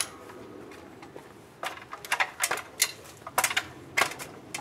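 A run of sharp, irregular clicks and knocks, starting about a second and a half in, from handling a telescopic tree-trimming pole and ladder.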